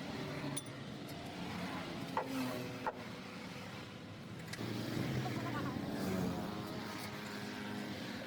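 A motor vehicle's engine running steadily, getting louder from about four and a half seconds in, with two sharp knocks a little over two and about three seconds in.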